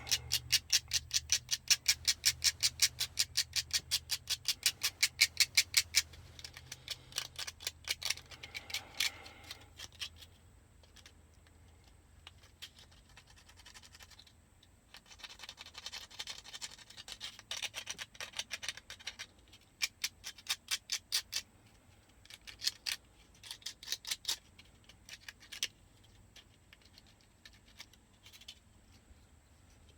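Sandpaper scrubbing back and forth on the metal contacts of a car's dome light housing to clean off corrosion. It goes in quick scratchy strokes, about five a second for the first six seconds, then in shorter runs with pauses between.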